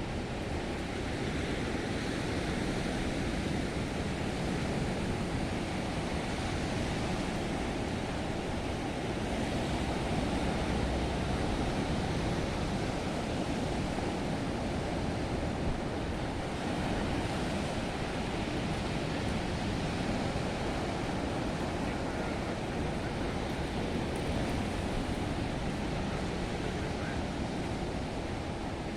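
Black Sea surf: waves breaking and washing onto the shore as a steady, continuous rushing noise, swelling slightly towards the middle.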